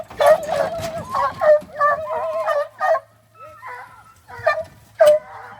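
Hunting hounds bawling and howling in long wavering cries, then breaking into short separate yelps after about three seconds.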